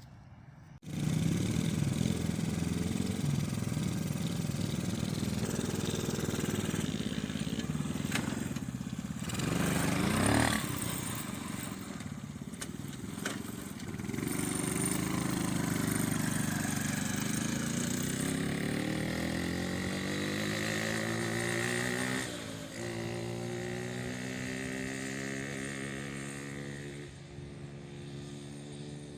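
A small dirt bike or go-kart engine running close by, its pitch rising and falling as the throttle is opened and eased off. It starts suddenly about a second in.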